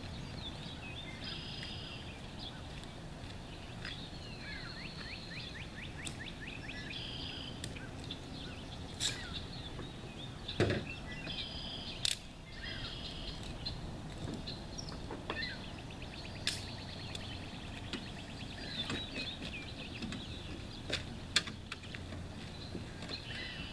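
Several small birds chirping and trilling over a steady outdoor background noise, with a few sharp clicks and knocks, the loudest about halfway through and again near the end.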